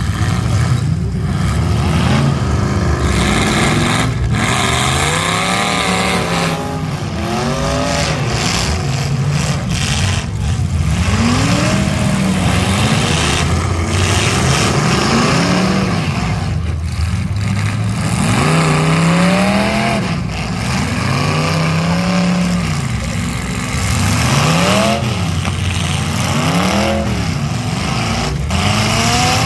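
Several demolition derby cars' engines revving up and down over and over, overlapping one another.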